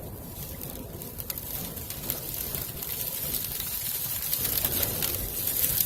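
Gale-force wind from a dust storm buffeting a stopped truck, heard from inside the cab, with blowing dust hissing against it. The gust builds steadily louder.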